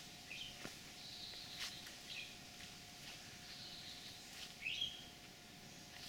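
Faint short bird chirps, a few scattered calls a second or more apart, over quiet rural background noise.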